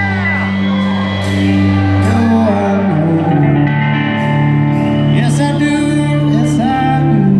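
Live rock band playing with lead vocals, the music loud and sustained, and the bass and chord changing about three seconds in.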